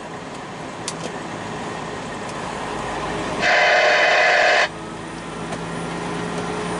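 Steady engine and road noise of a semi-truck heard from inside the cab as it climbs a mountain pass, growing slowly louder. About halfway through, a loud steady burst of about a second cuts in and out sharply.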